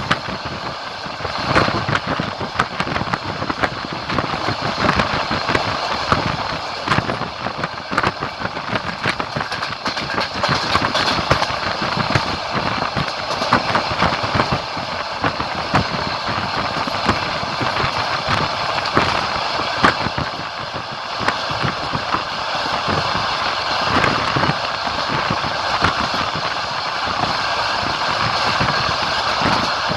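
Passenger train running, heard from aboard: a steady rumble of wheels on rails with many irregular clicks and rattles.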